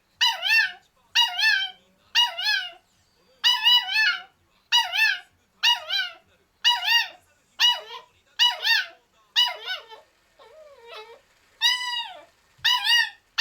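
Kaninchen dachshund puppy yipping and whining over and over, about one short, wavering call a second with a brief lull near the end. It is demanding to be let out of its cage.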